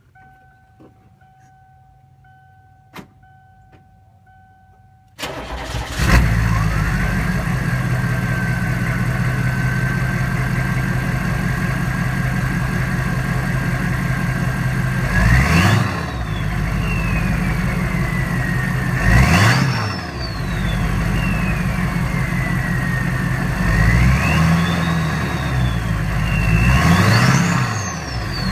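A 2001 Hummer H1's 6.5-litre turbodiesel V8, through a custom exhaust, is started: a faint steady warning tone and a click, then the engine catches about five seconds in and settles to idle with a steady whistle. It is then revved four times, each rev bringing a whistle that rises sharply and falls away slowly as the revs drop.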